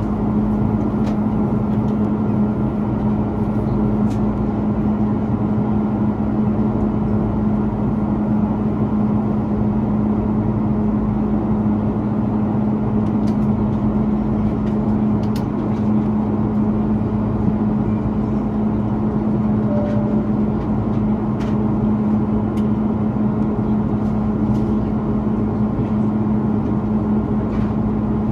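Cabin noise of an Airbus A330-300 climbing after take-off: its Rolls-Royce Trent 700 engines and the airflow make a steady drone with a strong, even low hum.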